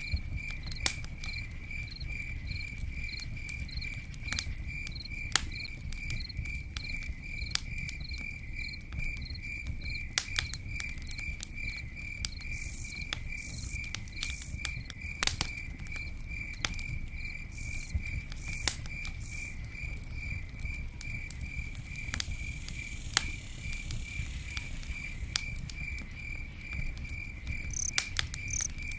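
Campfire crackling with scattered sharp pops over a low rumble, while a cricket chirps steadily about twice a second.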